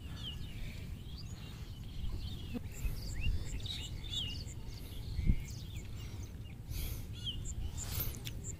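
Small birds chirping and calling repeatedly in short rising and falling notes, over a steady low rumble, with a single dull thump about five seconds in.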